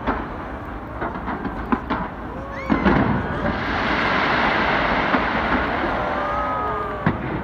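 Fireworks going off: scattered sharp pops at first, then from about three seconds in a dense, steady crackle that lasts until near the end.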